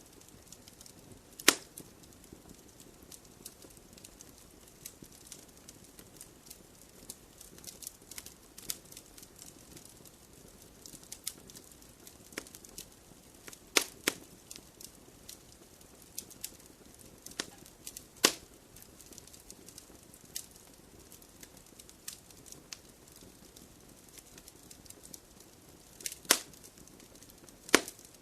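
Wood fire in a fireplace crackling: a steady scatter of small snaps over a soft hiss, with a handful of louder sharp pops from the burning logs, about five in all.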